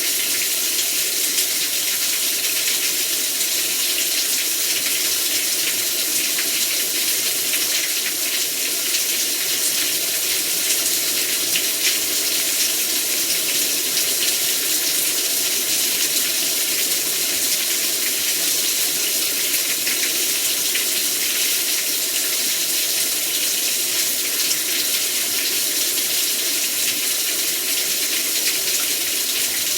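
Heavy rain pouring down steadily, a dense hiss with a fine patter throughout.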